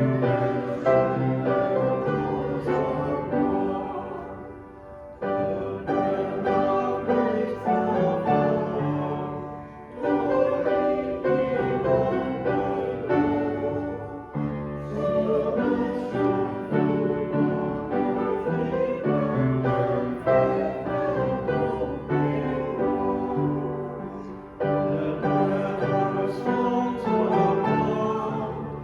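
Hymn music: voices singing with piano accompaniment, in phrases with short breaks between lines.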